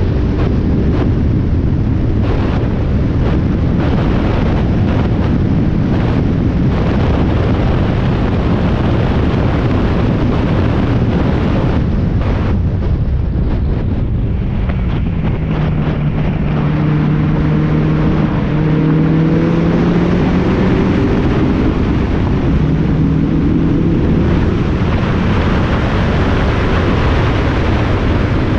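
Spec Miata race car's four-cylinder engine running hard on track, heard from the cockpit with wind noise on the microphone. Short sharp knocks come through in the first several seconds, and near the middle the engine note dips and then climbs again.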